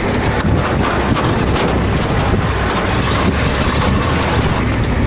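Ford pickup truck driving over rough ice and snow: a steady low engine rumble with many knocks and rattles from the jolting ride.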